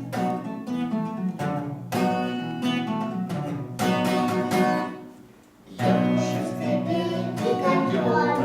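Instrumental song introduction led by a plucked acoustic guitar playing chords, briefly dropping away about five seconds in before resuming.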